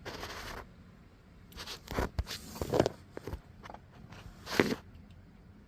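Several short, separate crunching and scraping sounds of handling beneath the car, the strongest a little after four and a half seconds.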